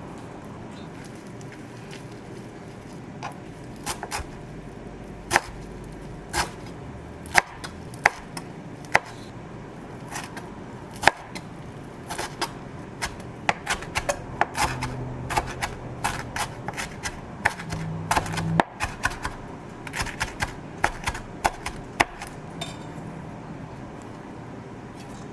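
Irregular sharp knocks and clicks of kitchen work, coming in quick clusters through the middle. A low hum comes in briefly twice.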